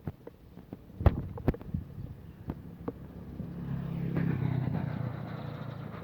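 A motor vehicle passing close by, its engine sound swelling and then fading away. Before it, two sharp knocks about half a second apart, among lighter scattered ticks.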